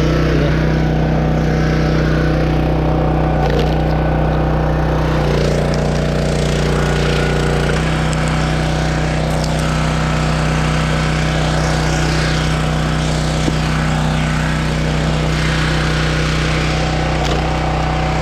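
Small petrol engine of a 12-ton engine-driven log splitter running steadily, its note shifting a few times as the hydraulic ram is worked to split a log.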